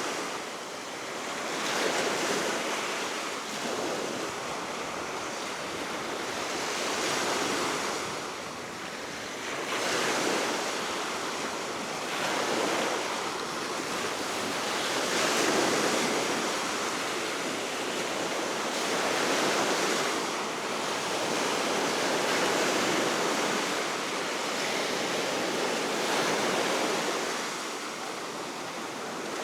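Baltic Sea waves washing onto the shore below a cliff, a continuous surf noise that swells and ebbs every few seconds, with steady wind.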